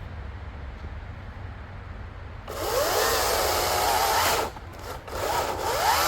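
Battery-powered electric chainsaw spinning up about two and a half seconds in and cutting into an oak log, its motor pitch wavering as the chain bites. It stops briefly and then spins up again near the end.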